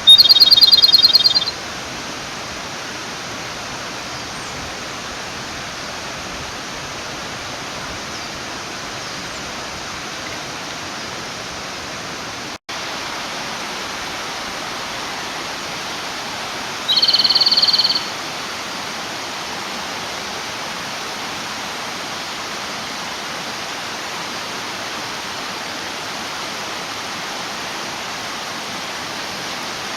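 A male Japanese robin sings twice, each song a short, loud, fast trill about a second and a half long: once at the start and again about 17 seconds in. It is a territorial song calling for a female, heard over the steady rush of a mountain stream.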